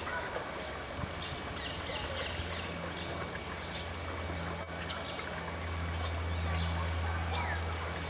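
Faint bird chirps, several short ones in the first half and a falling whistle near the end, over a steady low hum.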